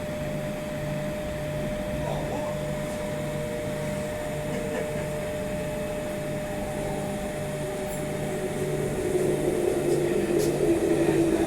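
Electric suburban train approaching the platform, its motor whine slowly falling in pitch and growing louder near the end, over a steady station hum.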